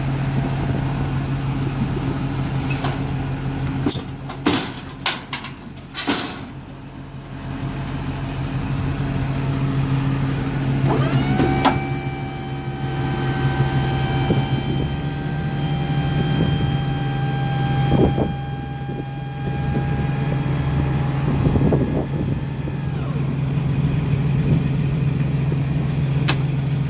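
Truck engine idling steadily, with a few sharp metallic knocks about four to six seconds in. About halfway through, a mechanical whine rises in pitch, holds steady for roughly ten seconds and then dies away.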